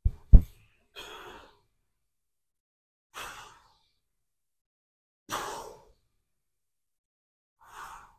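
Two sharp low thumps, then a man breathing out forcefully four times, about two seconds apart, the breaths of someone straining through repetitions of a leg exercise.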